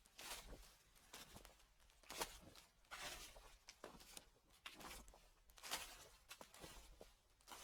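Footsteps crunching through dry fallen leaves at a slow walking pace, each step a short crackling rustle, about one a second.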